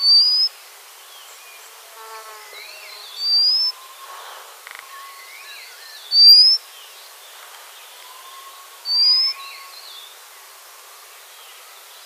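White-capped redstart giving four thin, rising whistled calls, one about every three seconds. Fainter chirping notes run underneath.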